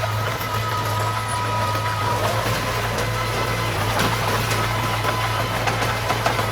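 Diesel engine of heavy earthmoving machinery running steadily, with scattered light clanks.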